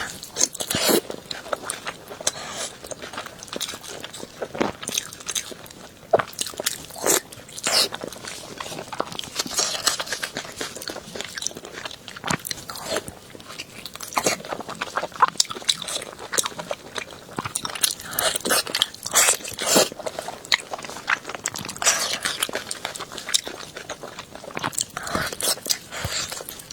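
Close-up chewing and biting of crunchy food: irregular crunches and smacks, some louder bites standing out.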